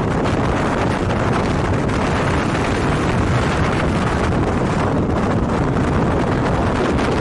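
Strong wind blowing in a steady low rush, with gusts swelling and easing.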